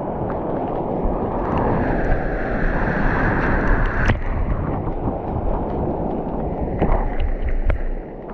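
Seawater sloshing and splashing around a surfer's GoPro in choppy surf, with 25-knot wind buffeting the microphone and a few sharp ticks of water striking the housing.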